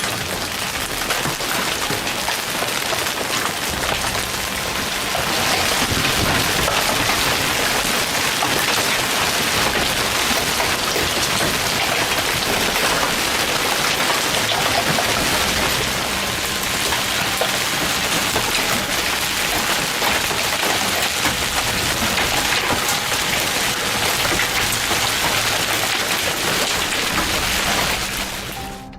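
Heavy rain falling steadily, a dense even hiss that drops away abruptly at the very end.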